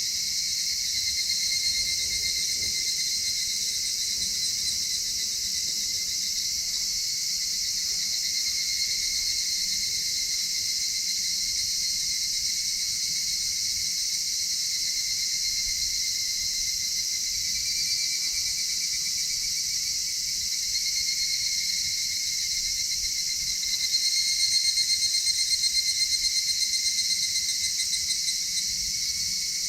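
A dense chorus of crickets and other insects trilling steadily. Late on, one pulsing trill grows louder for a few seconds.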